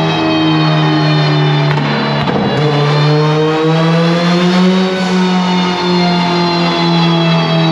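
Turbocharged Honda B18 four-cylinder engine running hard on the dyno, holding a steady high note that rises and then falls slightly about halfway through. Music plays along with it.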